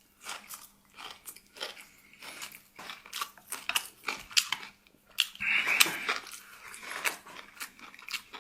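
A person chewing and crunching a mouthful of food close to the microphone, with quick irregular crunches several times a second. The crunching is louder and denser for a moment about five seconds in.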